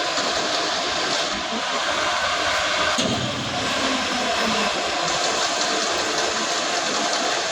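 A vehicle engine running steadily under a constant rushing noise, with one sharp click about three seconds in.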